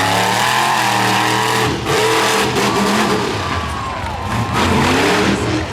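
Monster truck's V8 engine revving hard, its pitch climbing and falling several times as the throttle is worked.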